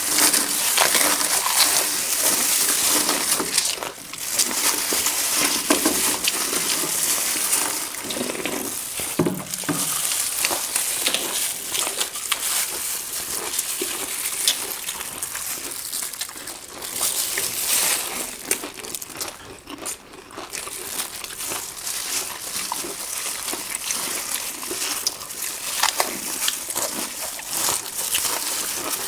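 Eating sounds of panipuri being eaten fast: crisp puri shells crunching and being chewed, with wet, sloshing mouthfuls of the spiced water.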